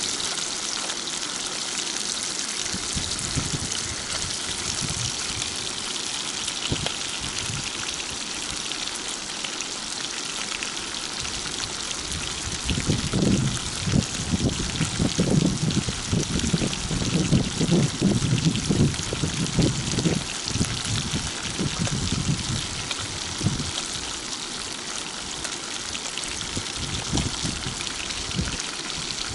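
Floured rotan fish frying in oil in a pan: a steady crackling sizzle. For about eight seconds in the middle a low, uneven rumble rises over it.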